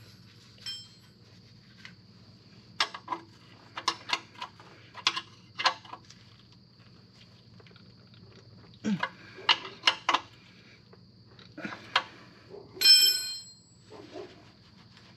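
Hand tools and metal parts clinking and knocking in short irregular clusters, with one bright ringing metallic ding near the end.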